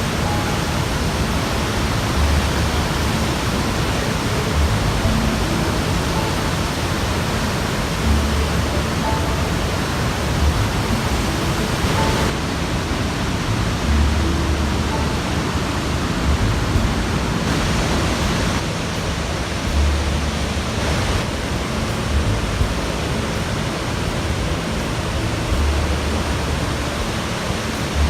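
Victoria Falls, the Zambezi River plunging into its gorge: a loud, steady rushing of falling water, with short low swells every couple of seconds.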